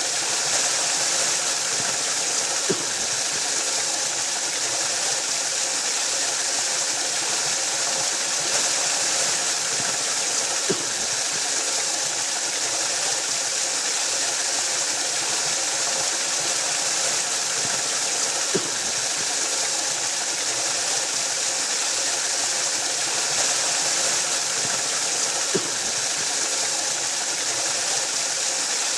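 Waterfall: a steady, unbroken rush of falling water, a hiss heaviest in the high range, with a faint soft tap four times.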